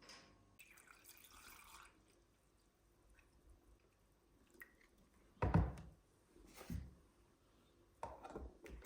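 Quiet household handling sounds: a brief hiss like a short run of water, then three knocks or clatters, the first the loudest.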